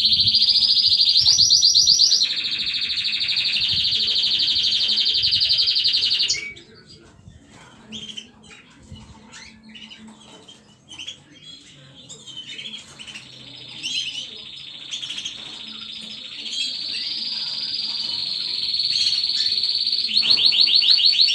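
Small pet birds chirping, with scattered short calls. A loud, steady, high trill fills the first six seconds, stops abruptly, and returns near the end.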